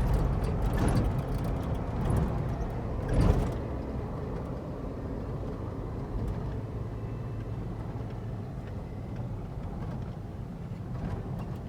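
Car engine and road noise heard from inside the cabin while driving. A few louder swells come in the first three seconds or so, then the sound settles into a steady low hum.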